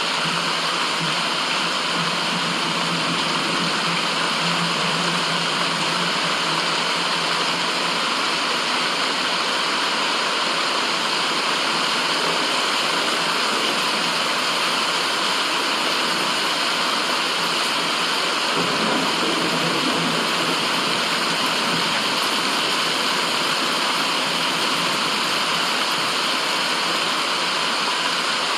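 Steady, even rushing hiss of a white-noise track, unchanging in level, strongest in the upper middle range.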